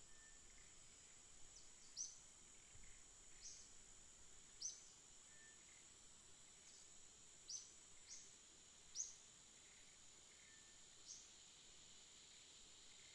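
Small songbirds giving short, sharp high chirps, each dropping quickly in pitch, about eight at irregular intervals, over a steady high insect trill.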